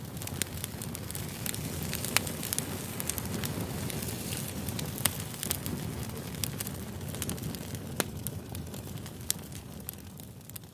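Campfire of burning wood crackling: a steady low rush of flames with sharp pops and snaps scattered irregularly through it, fading down near the end.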